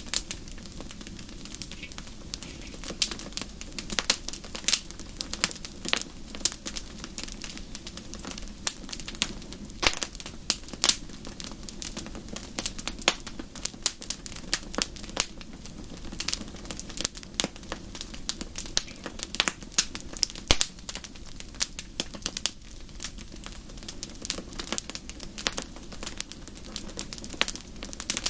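Wood fire in a fireplace crackling: irregular sharp pops and snaps over a steady low hiss.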